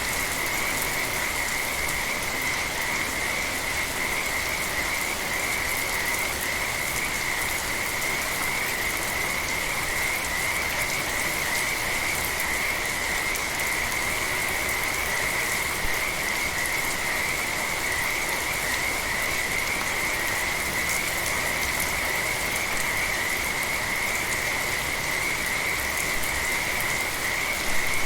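Steady rain falling, with a chorus of frogs calling in one continuous high, trilling band that holds unbroken throughout.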